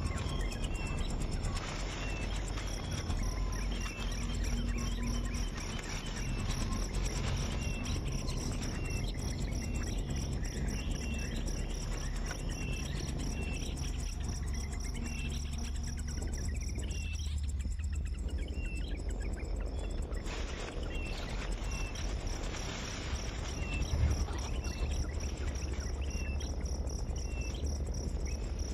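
Insects calling steadily on one high pitch, with short chirps repeating every second or so, over a steady low rumble.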